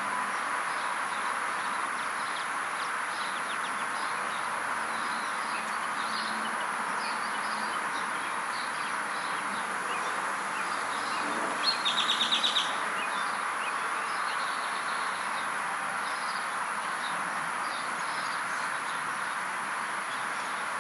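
Birds chirping over a steady background noise, with one loud, rapid trill lasting under a second about halfway through.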